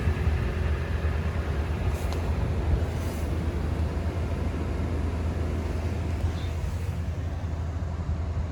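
Toyota Tundra's 5.7-litre V8 idling with a steady low rumble.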